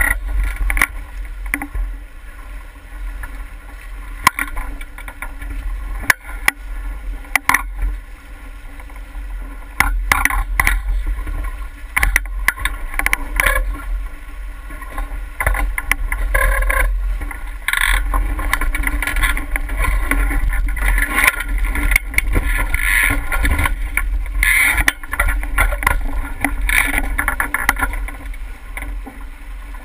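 Water rushing and slapping along a sailboat's hull with a steady low rumble of wind on the microphone, and scattered sharp knocks and clicks throughout. The water noise grows busier from about a third of the way in.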